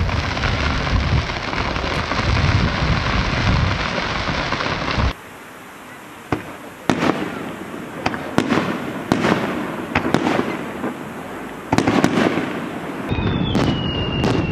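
Fireworks: first the steady hissing crackle of ground fountains spraying sparks. About five seconds in the sound changes abruptly to aerial shells bursting with sharp bangs, one or two a second. A high whistling tone sounds near the end.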